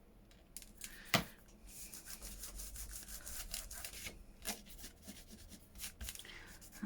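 Fingers rubbing and pressing down a glued piece of paper on a journal page: a dry rubbing noise with scattered light clicks, after a single sharp tap about a second in.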